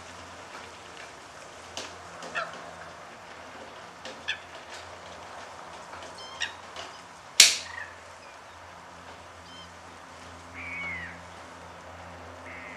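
Scattered short calls of waterbirds, the loudest a single sharp call falling in pitch a little past the middle, and a curving call near the end, over a steady faint low hum.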